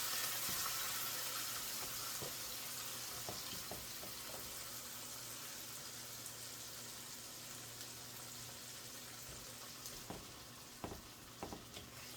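Chicken stock sizzling and bubbling in a hot pan of sautéed onions, peppers and flour roux, the hiss fading slowly as it settles to a simmer. A few light clicks near the end.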